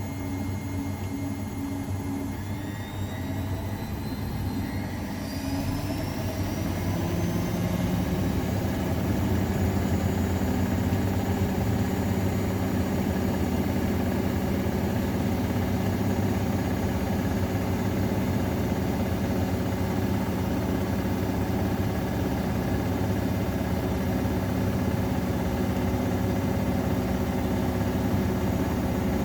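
AEG Öko_Lavamat 693 washing machine's drum motor speeding up, with a whine rising in pitch a few seconds in, then running at a steady higher speed.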